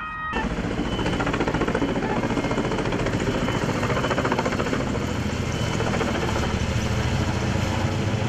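Helicopter flying close, its rotor chopping in a fast steady flutter over the engine's run, loud and unbroken. It starts abruptly a moment in.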